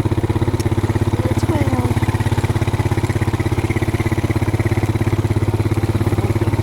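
Small engine running steadily at idle with a fast, even putter.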